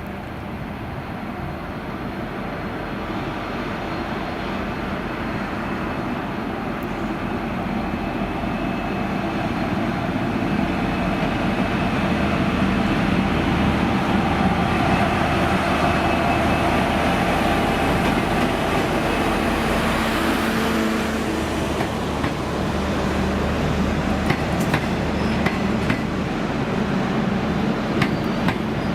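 An N class diesel locomotive hauling a passenger train approaches, its engine growing louder through the first half and then running steady. Wheel clicks over the rails come near the end.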